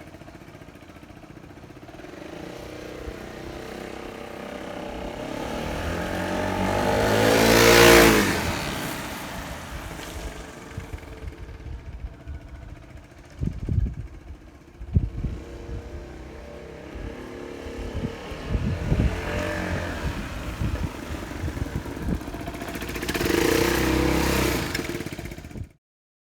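Royal Alloy GP200 scooter engine running through its exhaust and being revved: a long climb to a loud peak about eight seconds in, then dropping back to idle, with a few sharp knocks in the middle and two shorter rev blips later, cutting off suddenly near the end.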